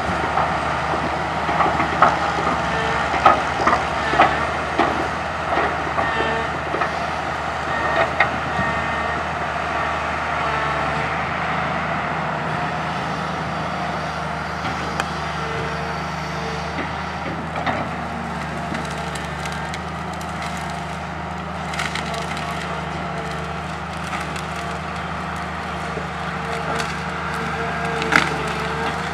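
Komatsu PC200 hydraulic excavator's diesel engine running steadily while its bucket grabs and crushes tree branches, with repeated cracking and snapping of wood throughout.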